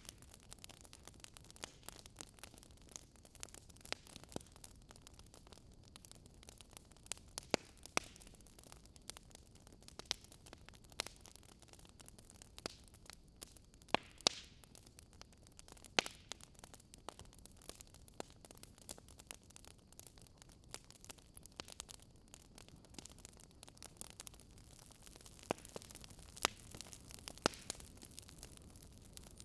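Wood fire burning in a fireplace: a soft steady hiss with irregular sharp crackles and pops, a few louder snaps among them.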